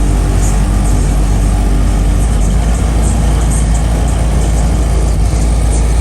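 Car engines running at a street cruise, a loud, steady, deep rumble.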